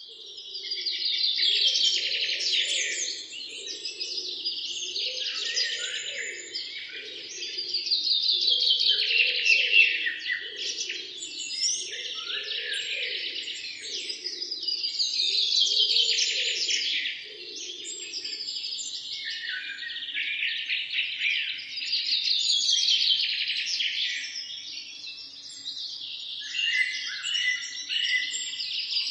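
Songbirds singing in a busy morning chorus, with long, rapid, chattering song phrases that swell and fade about every six seconds. A lower, softer pulsing call runs underneath for the first two thirds and then stops.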